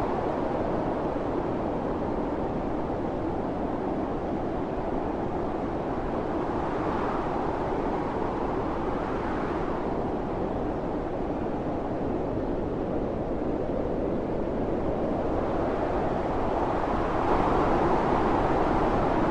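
Howling wind of a snowstorm, a steady rushing noise with gusts that swell and rise in pitch a few times, the strongest near the end.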